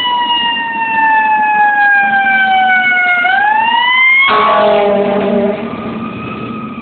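Fire truck's siren winding slowly down in pitch, then rising again about three seconds in. Just after that a loud, steady, multi-toned blast of the truck's air horn sounds for about a second, and the siren then goes on more faintly.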